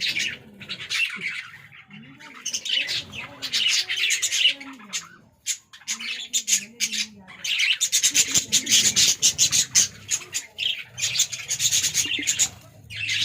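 Budgerigars chattering and squawking in bursts of dense, rapid, high-pitched chirps, with short lulls between the bursts.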